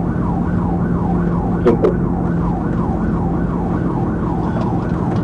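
Police car siren in a fast yelp, its pitch rising and falling about three times a second, over steady engine and road noise from the patrol car in pursuit. A brief click-like blip sounds a little under two seconds in.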